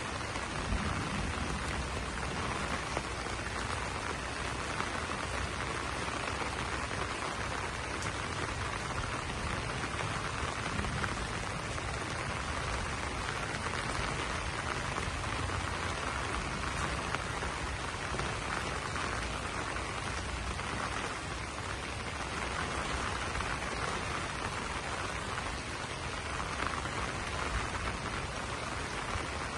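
Steady rain falling on banana leaves: a dense, even patter of drops.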